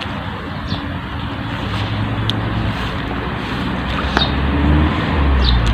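Spring meltwater stream running in a steady rush, with wind rumbling on the microphone, the rumble growing stronger toward the end.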